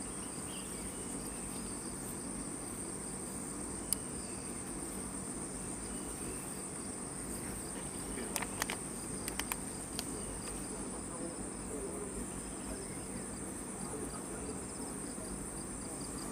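Steady, high-pitched chorus of forest insects such as crickets, with a few sharp clicks a little past the middle.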